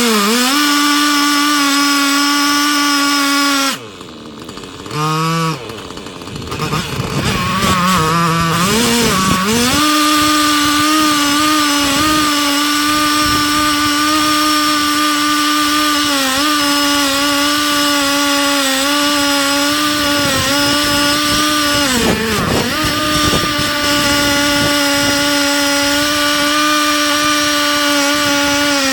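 Husqvarna 3120XP two-stroke chainsaw on a chainsaw mill, running at full throttle while ripping a large oak log into slabs. About four seconds in it drops briefly toward idle, then revs back up and holds a steady high pitch with one short dip. It falls off near the end.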